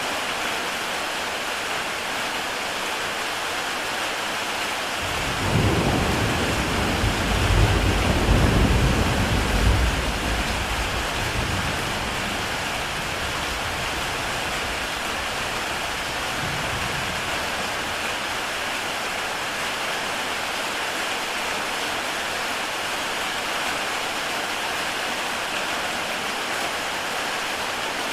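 Steady heavy rain on a tile roof, with a roll of thunder about five seconds in that rumbles for several seconds and fades away.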